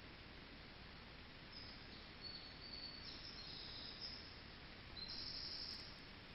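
Faint high, thin whistled notes of a small songbird: several short steady notes at slightly different pitches starting about a second and a half in, the loudest and longest near the end. Under it runs the steady hiss of the camera trap's microphone.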